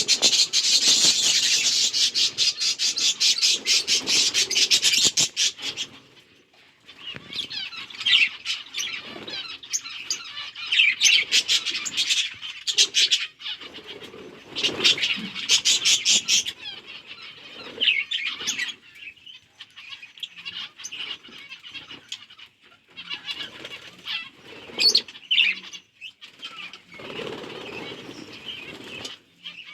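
A flock of budgies chirping and chattering, with runs of rapid wing flapping in the first few seconds and again around the middle.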